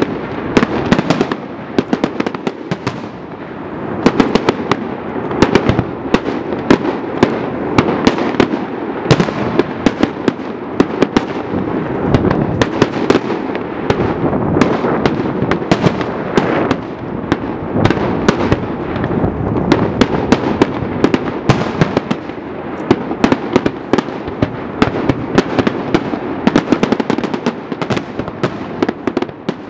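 Fireworks display in a dense barrage: many aerial shells bursting in quick succession, sharp cracks and booms overlapping without a break.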